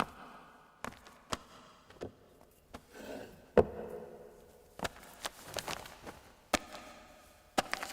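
Scattered sharp knocks and taps on a hard surface, irregularly spaced, the loudest about three and a half seconds in, with soft rustling between them.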